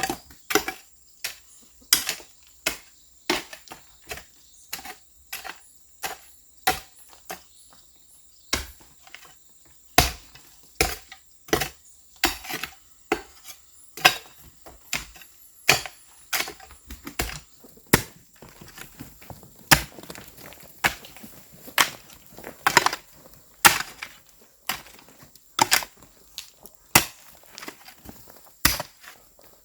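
A hand tool chopping steadily, dozens of sharp strikes at roughly one a second, some hard and some lighter. A steady high insect drone carries on underneath.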